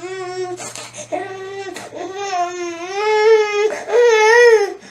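Baby crying: a run of wavering wails, each up to about a second and a half long with short breaks between, growing louder in the second half.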